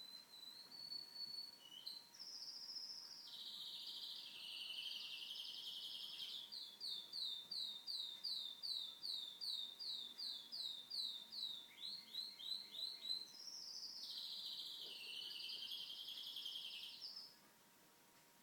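Pet canary singing a long song: rolling trills, then a run of about fourteen repeated downward-sweeping notes, a few quick notes, and another rolling trill that stops suddenly near the end.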